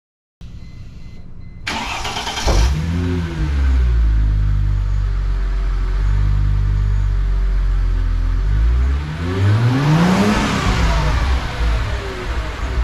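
Supercharged 3.2-litre V6 of a 2005 Chrysler Crossfire SRT-6 starting about two seconds in and settling to a steady idle. It is revved once around ten seconds in, the pitch rising and falling with a supercharger whine.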